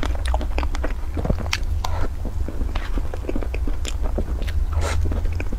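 Close-miked eating of soft cream cake: chewing with many small, irregular wet mouth clicks over a steady low hum.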